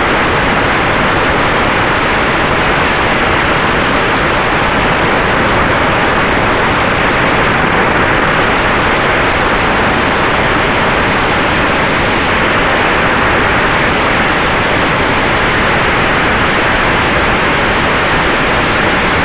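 Steady rushing noise of air and propeller in the cockpit of an electric Sonex Xenos airplane, with a faint steady tone under it.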